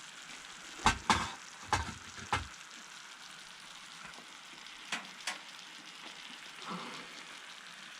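Bison, garlic and mushrooms sizzling in butter in a pot on a wood-burning stove, with a steady hiss. A stirring utensil knocks against the pot four times in the first couple of seconds and twice more about five seconds in.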